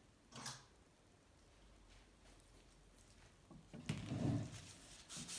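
Brief handling sounds of bicycle bottom-bracket parts: a short scrape about half a second in, then a louder clunk and rubbing near the end.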